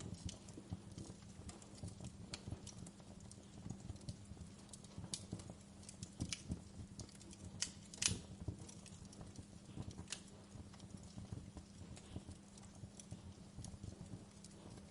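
Wood fire in a fireplace crackling, with irregular sharp pops and snaps, the loudest about eight seconds in, over a steady low rumble.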